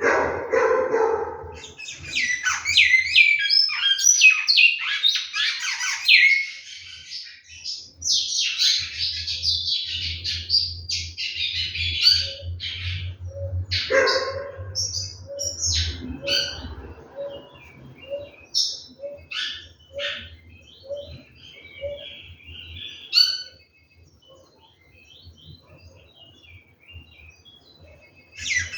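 Great-billed seed-finch (bicudo) singing: long, fast warbled phrases for the first dozen seconds, then shorter, scattered notes and chirps. Through the middle, a series of short low notes comes at an even pace, about one a second.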